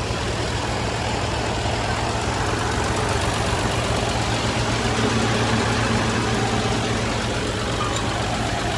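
Heavy diesel engine of farm machinery, a tractor or combine harvester, running steadily at a low, even speed.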